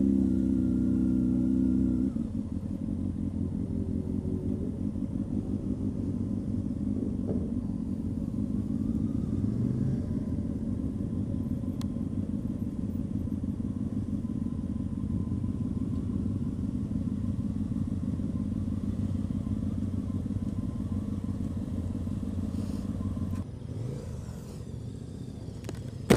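Honda CB600F Hornet's inline-four motorcycle engine running at low revs while riding at walking pace, a steady pulsing rumble. The engine note is higher for the first two seconds, then drops to a low, even pulse, and the sound eases off a little near the end.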